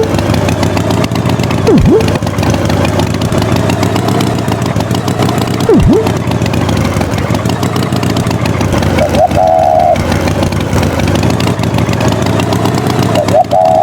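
An engine running loudly and steadily, cut by a few quick swoops down and back up in pitch. A brief, higher wavering tone comes in about nine seconds in and again near the end.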